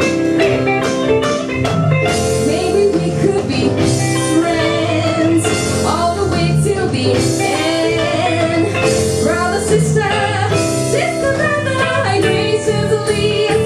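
A live band playing a pop song, with guitar prominent and singing.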